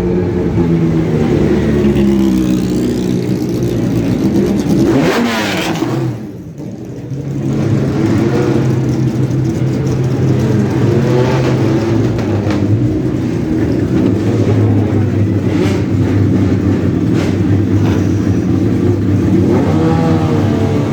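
Sports car engines running and revving as cars pass, with a brief lull about six seconds in.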